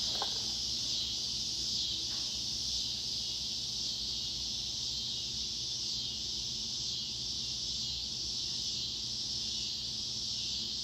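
A steady high-pitched hiss with a faint low hum underneath, unchanging throughout and with no distinct events.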